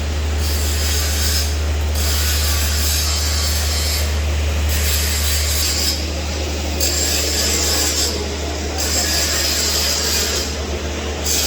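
Electric arc welding crackling and hissing in runs of one to two seconds with short breaks between, over a steady low hum.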